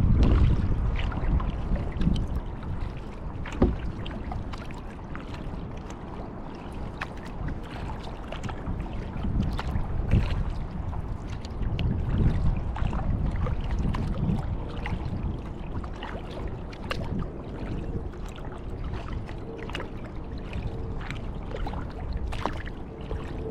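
Kayak paddle strokes through lake water, with drips and small splashes ticking off the blades. An uneven low rumble of wind on the action-camera microphone swells and fades.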